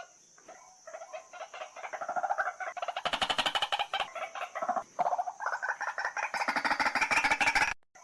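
White-breasted waterhen calling: a fast run of harsh, croaking notes, about ten a second, quieter at first and then building, cutting off abruptly just before the end.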